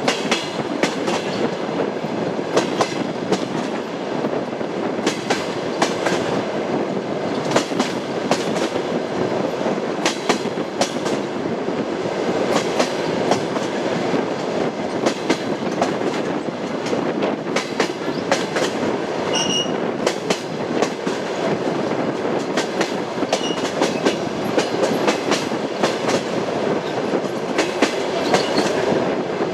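Passenger train wheels clicking over the rail joints of jointed track at running speed: a steady rumble with sharp clacks several times a second.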